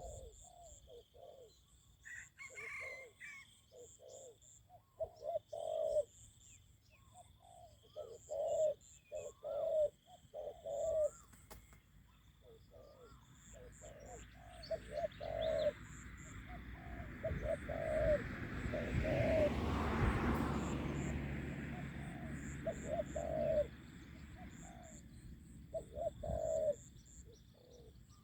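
Spotted doves cooing in repeated phrases, with high thin chirping in the background. About halfway through, a broad rushing noise swells up, briefly louder than the coos, then fades.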